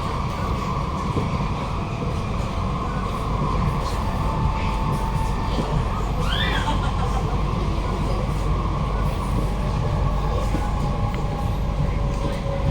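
Inside a Kawasaki–CRRC Sifang C151A MRT train running on the line: a steady rumble of wheels on rail under a faint steady whine, with a brief high squeal about six and a half seconds in.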